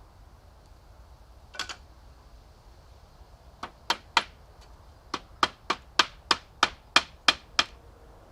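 Hammer blows on wood. One short knock, then twelve sharp strikes: three quick ones, a brief pause, and a steady run of nine at about three a second.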